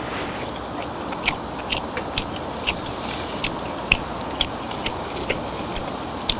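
Chewing with wet mouth clicks and smacks, about one or two a second, over a steady low hiss.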